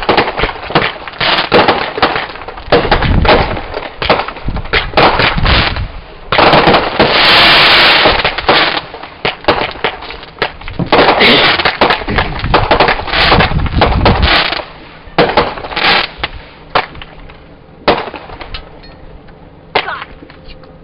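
Consumer fireworks going off in quick succession: sharp bangs and crackles, with a dense crackling barrage about six seconds in lasting a couple of seconds and another run of rapid pops around eleven to fourteen seconds. The bursts thin out to scattered pops near the end.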